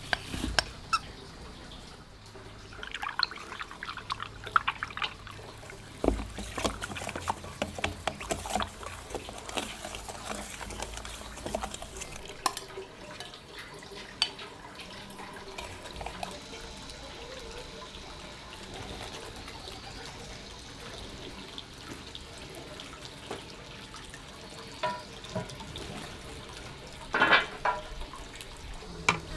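Water splashing and pouring, with scattered clinks and knocks of things being handled in it; the knocks are busiest in the first half and come loudest near the end.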